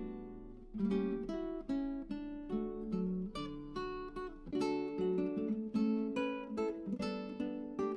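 Background music on acoustic guitar: plucked and strummed notes, a few each second.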